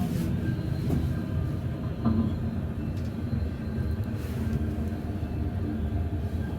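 Steady low running rumble of a moving passenger train, heard from inside the carriage, with a couple of faint knocks about one and two seconds in.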